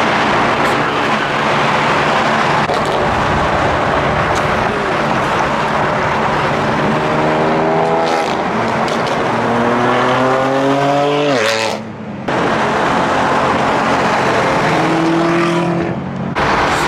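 Car engine and exhaust under hard acceleration: a steady drone, then the engine note climbs for about four seconds and breaks off sharply about twelve seconds in as the car shifts up, with another shorter climb and break near the end.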